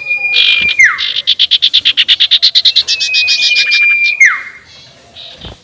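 Sirtu owl calling: a long, flat whistled note ending in a quick downward slide, then a fast cackling run of rapid pulses lasting about two seconds, then another whistle with the same drop at its end.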